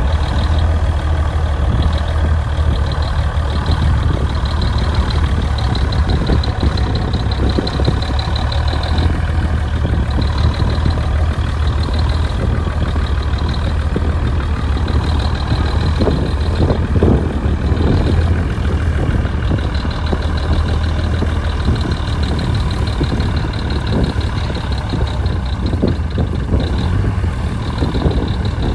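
Bulldozer's diesel engine running steadily under a loud low hum, with a few clanks about halfway through and again near the end.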